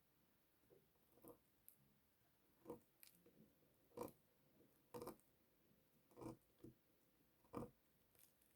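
A bar of soap being cut, giving short, soft crunches about once a second.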